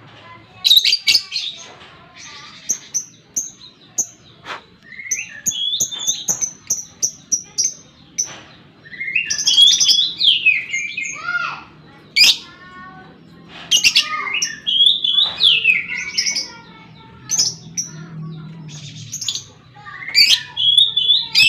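Lovebirds chirping and screeching in quick phrases of sharp high calls, runs of short repeated notes and falling squeaks, with brief pauses between phrases.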